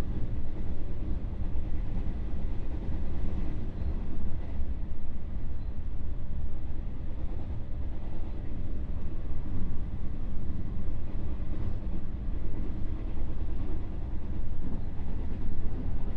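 JR West 221 series electric multiple unit running at speed, heard from inside the motor car KuMoHa 221-67: a steady rumble of wheels on rail and running gear, with a faint steady whine above it.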